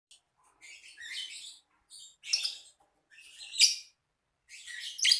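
Lovebird chattering in short, harsh, scratchy bouts, four of them about a second apart, the last the loudest.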